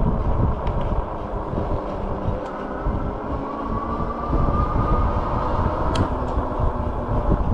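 Wind buffeting the microphone and rolling noise while riding an e-bike, with a faint rising motor whine around the middle and one sharp click about six seconds in.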